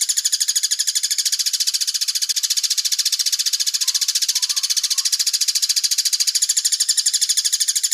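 A songbird's rapid, steady trill: a machine-gun run of high chirps repeated about ten times a second without a break, the sogon's cililin-style 'tembak' phrase.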